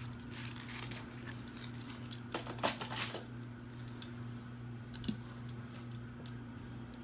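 Plastic LEGO pieces clicking and rattling as they are handled and fitted, with a quick cluster of clicks about two and a half to three seconds in, over a steady low hum.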